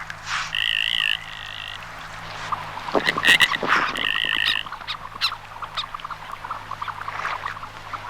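Goldeneye display notes: two drawn-out, wavering whistled calls, one about half a second in and one about four seconds in, with a burst of dry clicking, rattling notes between them and scattered clicks after.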